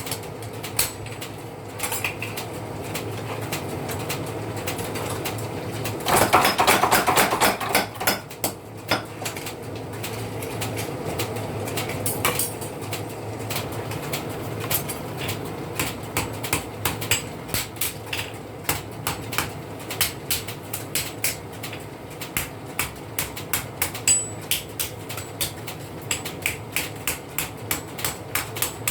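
Hammer blows on hot steel at a blacksmith's anvil, forging a sickle blade. A louder, faster run of strikes comes about six seconds in and lasts about two seconds. Later the blows fall more evenly, about two or three a second.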